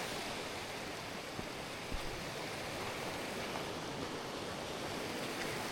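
Steady rushing of a swollen stream, with a couple of soft knocks about two seconds in.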